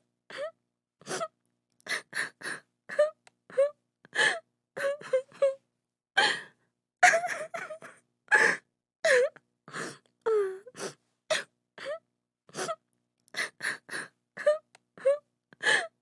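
A woman crying and sobbing in short, broken gasps and wails, each one cut off by silence, some sliding down in pitch.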